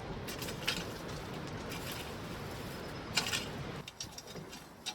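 Gritty scraping of dirt being worked to level a patio base, with a few short scratchy clicks, the loudest about three seconds in. It drops away shortly before the end.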